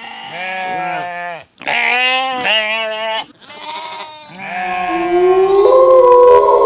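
Sheep bleating three times, each bleat wavering and quivering in pitch. About four and a half seconds in, a long steady horn-like note starts and steps up in pitch twice.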